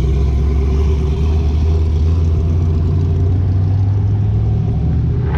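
Lowered square-body Chevy pickup's engine running at low speed as it drives slowly past, a steady deep low note.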